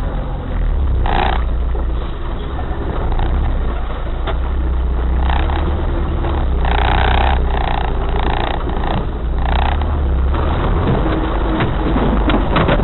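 Off-road 4x4 engine running with a steady low rumble as the vehicle drives over rough ground, with a few short, brighter bursts of sound in the middle.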